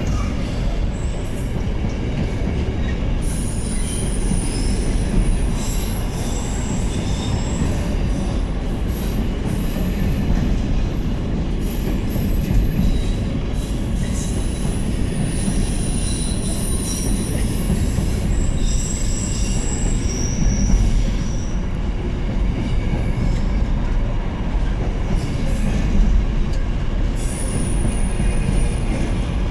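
Freight train hauled by a Class 66 diesel locomotive rolling through, its wagon wheels squealing in short, repeated high squeals over a steady low rumble.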